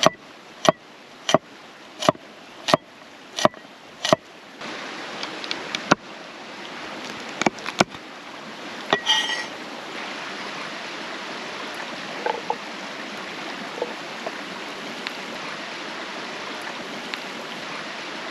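A knife chopping on a cutting board, about one and a half strokes a second, seven strokes in the first four seconds. After that, the steady rush of a creek with a few scattered clicks.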